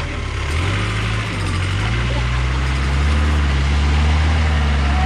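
Off-road vehicle engine running at low revs, its pitch shifting up and down at first, then settling and growing a little louder about three seconds in.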